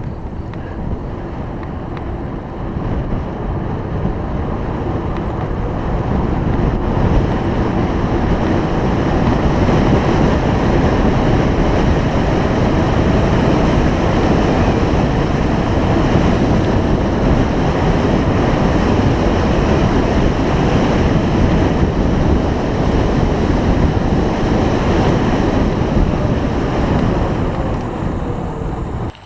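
Wind buffeting the microphone while riding a bike, a loud rushing noise that builds over the first several seconds and stops abruptly near the end.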